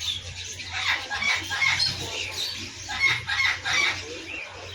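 Caged birds calling in two bouts of loud, quickly repeated notes, the first about a second in and the second around three seconds in.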